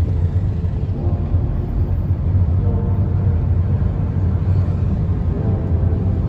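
A loud, steady low rumble, with faint tones coming and going above it.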